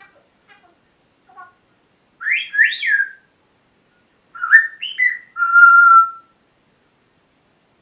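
Pet parrot whistling: a few faint soft chirps, then two quick swooping whistles, then a run of whistles ending in one held steady note.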